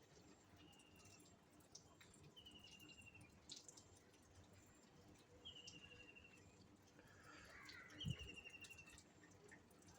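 A small bird repeating a short, faintly falling trilled call every two to three seconds, four times in all. A dull low thump comes about eight seconds in.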